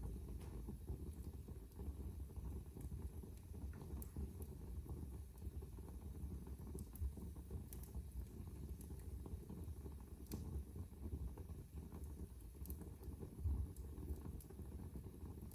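Fire burning in a fireplace: a steady low rumble of the flames with occasional sharp crackles and pops.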